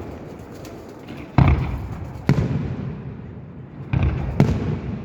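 Fireworks shells bursting overhead: four loud bangs, each echoing away. The first comes about a second and a half in, and the last two close together near the end.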